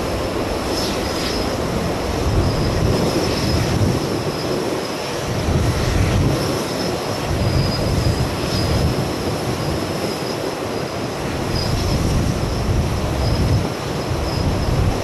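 Jet airliner engines running with a steady high whine over a continuous rush, while gusty wind buffets the microphone in low swells.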